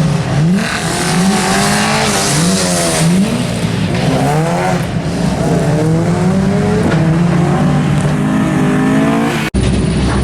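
Rally car engine accelerating hard through the gears, its pitch climbing and dropping back with each shift, with slower rises and falls later. The sound cuts off abruptly near the end.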